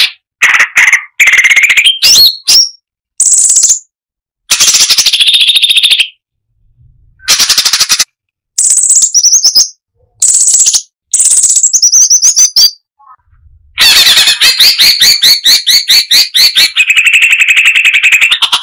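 Striated bulbul (cucak cungkok) song: short, loud phrases of chirps and whistled notes broken by dead-silent gaps. In the last few seconds it goes into a long run of rapid-fire repeated notes.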